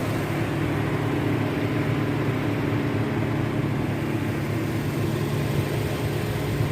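Motorboat engine running with a steady low drone as the boat cruises past.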